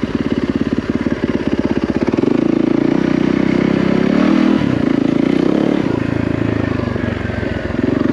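Yamaha WR450F dirt bike's single-cylinder four-stroke engine running at low revs under way, its note rising and falling several times with the throttle.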